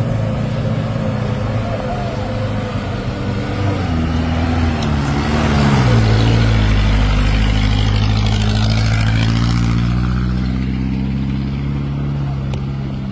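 Heavy truck engine labouring up a steep climb. Its note sags about five seconds in, then runs louder and steady.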